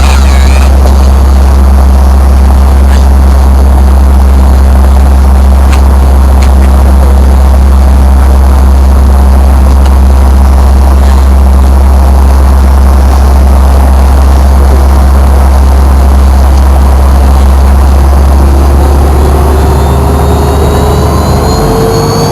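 Fokker 100's rear-mounted Rolls-Royce Tay turbofan engines heard loud from inside the cabin, a steady deep drone. Near the end, a new tone slowly rises in pitch.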